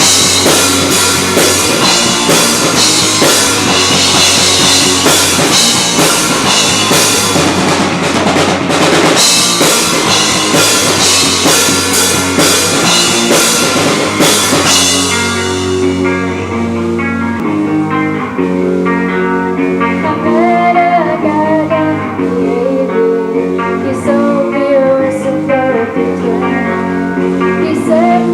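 Live rock band playing a shoegaze-style song with loud drums and guitars. About halfway through the drums and cymbals drop out, leaving sustained guitar chords under a wavering melody line.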